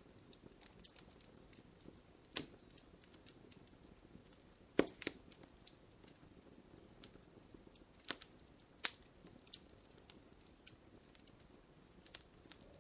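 Wood fire crackling in a fireplace: scattered small snaps and pops over a soft hiss, with a few louder pops about two and a half, five, eight and nine seconds in.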